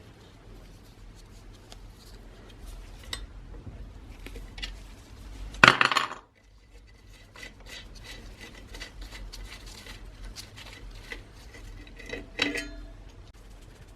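Small metal parts and tools clinking and knocking on a workbench, with a loud half-second burst of rasping noise about six seconds in and a louder ringing metallic clink near the end.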